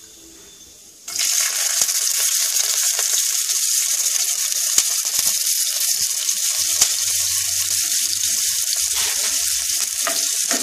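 Chopped garlic dropped into hot mustard oil, already tempered with nigella seeds and a dried red chilli, in a non-stick pan: a sudden sizzle starts about a second in and carries on as a steady frying hiss with a few small crackles.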